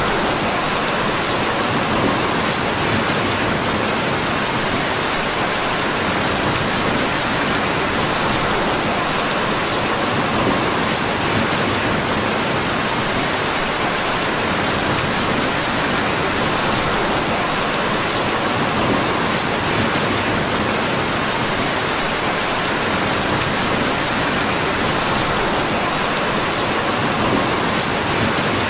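Steady rain falling on surfaces: a dense, even hiss of drops at a constant level, with no breaks.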